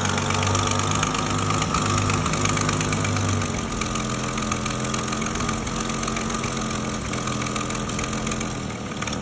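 1932 Bedford WLB coach's six-cylinder petrol engine running at idle, freshly overhauled. It runs steadily, and about three and a half seconds in it settles a little quieter and smoother.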